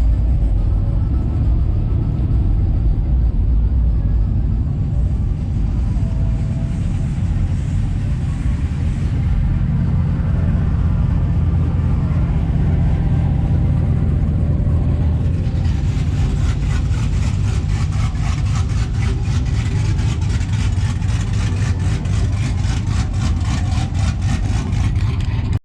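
Loud vehicle engine running with a deep, steady rumble. About fifteen seconds in it turns harsher, with a fast pulsing rasp.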